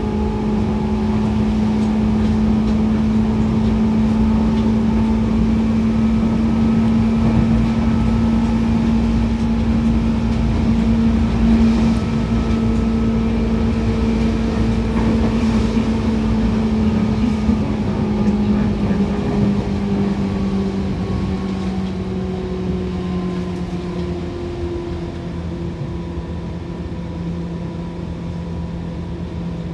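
Seibu 2000 series electric train heard from on board, running with a steady motor and gear hum over rumbling wheel and rail noise. In the second half the hum drops in pitch and gets quieter as the train slows.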